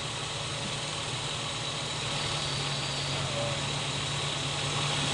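BMW E36 320's M52B20 inline-six idling with a steady low drone, during a check for a misfire; just here it runs smoothly ("enak").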